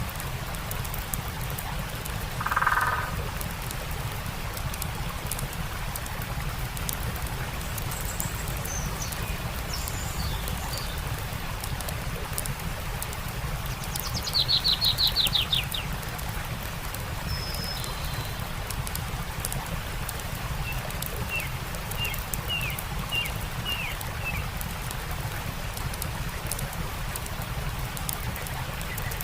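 Songbirds calling over a steady rush of flowing water with faint, scattered campfire crackles. The loudest call is a fast, rapidly repeated trill about halfway through. There is a short call a couple of seconds in and a run of brief chirps near the end.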